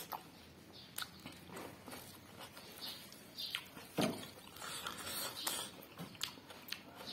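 A person eating: irregular small clicks and soft chewing sounds.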